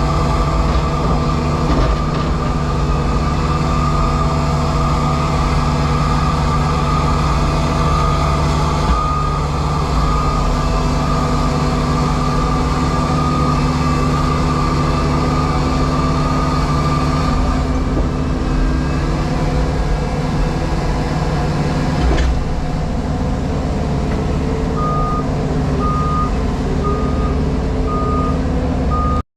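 JCB Pothole Pro running steadily, its engine heard from inside the cab. Near the end a reversing alarm starts beeping, about one beep a second.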